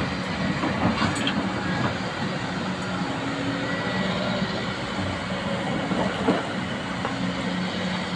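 Excavator's diesel engine running steadily, with clattering and an occasional sharp metallic knock, about a second in and again past the middle.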